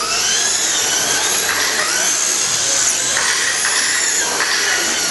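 Several radio-controlled short course trucks racing, their motors whining in overlapping pitches that rise and fall as the trucks speed up and slow down.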